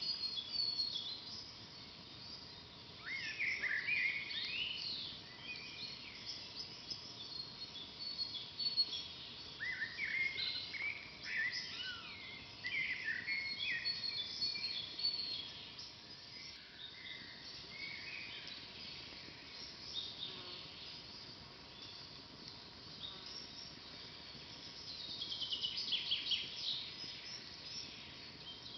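Forest birds singing and calling together, a busy chorus of short high chirps and trills, with a rapid trill near the end.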